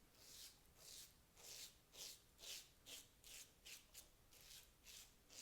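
Leaf Thorn single-edge safety razor scraping through lather and stubble on the neck, against the grain: faint, short strokes at about two a second.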